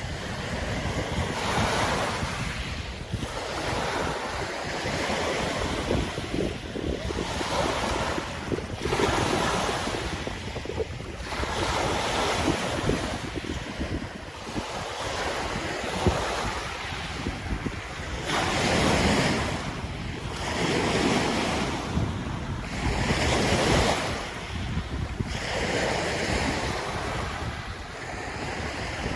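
Waves washing in, surging and receding every couple of seconds, with wind rumbling on the microphone.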